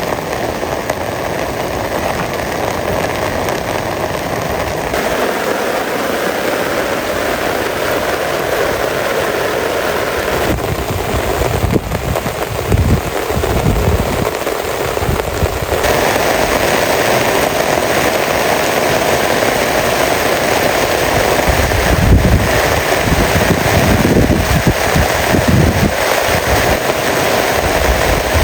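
Heavy rain pouring down as a dense, steady hiss and patter, with a few low rumbling surges.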